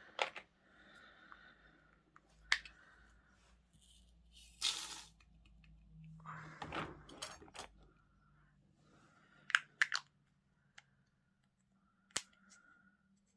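Small plastic containers and packets being handled: scattered sharp clicks and taps, with two short rustles in the first half.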